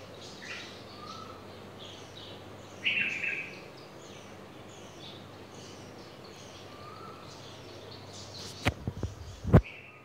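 Small bird chirping in short, high, repeated chirps, with one louder call about three seconds in. A few sharp clicks near the end.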